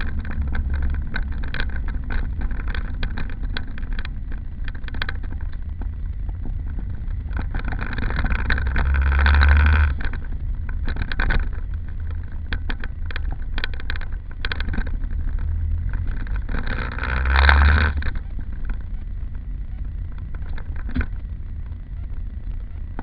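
Daihatsu Mira Gino's engine running with a steady low drone and scattered clicks. It rises briefly twice, about eight seconds in and again about seventeen seconds in.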